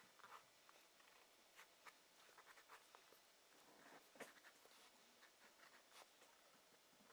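Faint scratching of short strokes drawn on paper, broken by small ticks, with a sharper tick about four seconds in.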